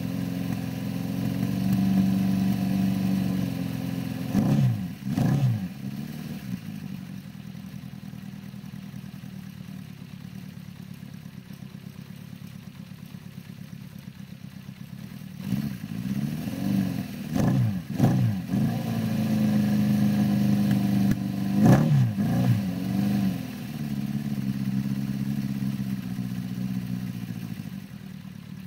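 1974 Honda CB550's air-cooled inline-four engine, fitted with aftermarket exhaust, idling steadily. Several quick throttle blips make the pitch jump up and fall straight back: a pair about five seconds in, a cluster of four or so around the middle, and a couple more a few seconds later.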